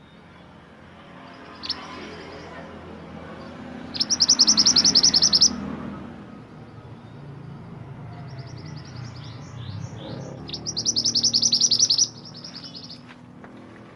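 Mantenan gunung singing: two loud, rapid high-pitched trilled phrases of about a second and a half each, the second led by a run of separate sweeping notes, over a low steady background hum.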